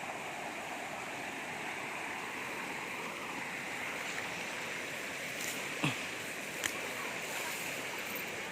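Steady rush of flowing river water, with two short sharp clicks near the end.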